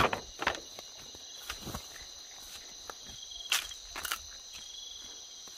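Insects trilling steadily on a high note, with a few short scattered knocks and rustles, the loudest about three and a half seconds in.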